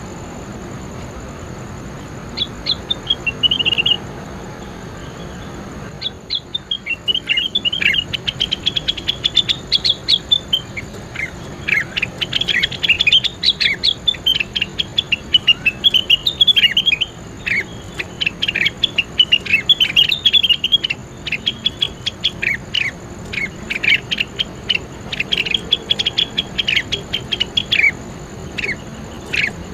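Songbird singing: a brief run of quick sharp chirps, a pause, then from about six seconds in a long, dense stream of rapid chirps and trilled notes. A steady thin high tone runs underneath.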